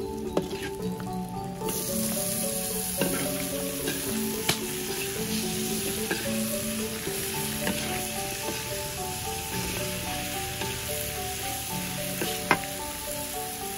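Stir-fry sizzling in a large aluminium wok, swelling to a louder hiss about two seconds in as sliced cucumber goes into the hot oil. A metal spatula scrapes and clinks against the wok a few times.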